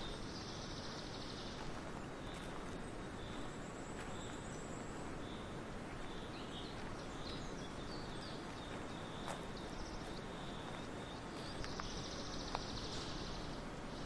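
Small birds chirping over a steady background hiss of outdoor ambience, with a buzzy trill at the start and another near the end, and a few faint clicks.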